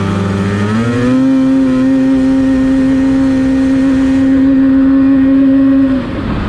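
Snowmobile engine revving up as the sled pulls away, then held at a steady high pitch for about five seconds before the throttle eases off near the end.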